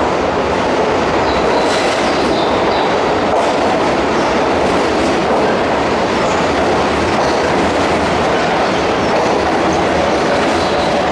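Keihan Main Line electric train running along the platform in the underground terminus, a steady loud rumble with wheels clicking over rail joints.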